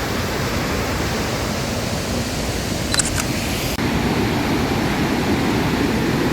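Steady roar of Victoria Falls: a dense, even rush of falling water. A few faint clicks come about three seconds in, and the rush turns deeper and fuller shortly after.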